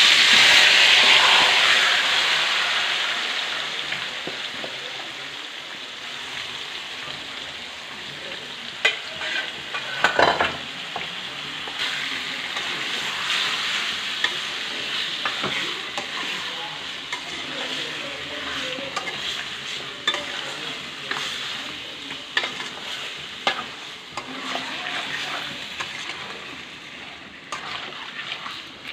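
Marinated chicken with onion and tomato hitting hot ghee and oil in a metal kadai: a loud sizzle at once that fades over a few seconds, then a steady sizzle as it fries. A spatula scrapes and knocks against the pan as the chicken is stirred.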